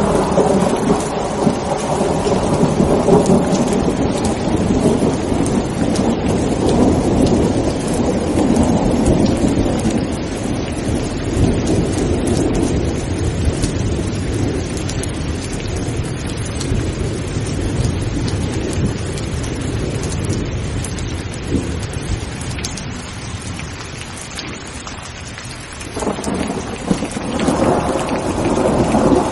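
Thunderstorm: steady heavy rain with rolling thunder. A long rumble at the start dies away slowly over about twenty seconds, and a fresh rumble swells up near the end.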